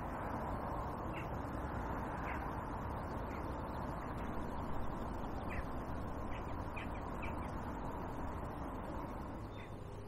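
A scatter of short, faint bird calls over a steady background hiss of outdoor ambience.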